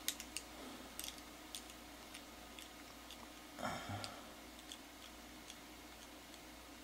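Small metal carburetor parts and a hand tool being handled while the fuel needle is backed out: faint scattered clicks and ticks, with a short scrape about halfway through.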